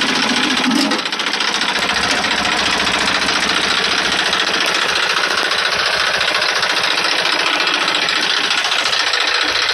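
Eicher 380 tractor's diesel engine running with a steady, fast clatter; a lower hum that runs with it drops away about a second in.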